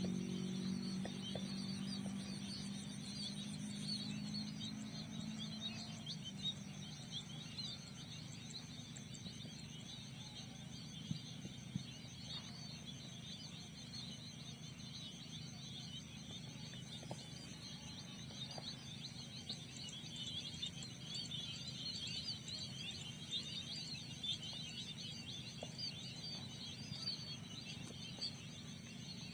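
A flock of small rice-field birds (burung pipit) chirping continuously over a steady high insect drone. A low hum fades out in the first few seconds.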